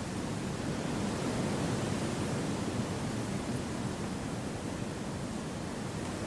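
Wind blowing steadily through a forest: an even, unbroken hiss with no gusts or separate sounds, heaviest in the low range.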